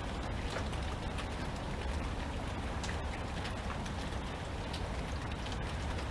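Steady rain with many individual drops pattering and ticking on a surface, over a constant low rumble.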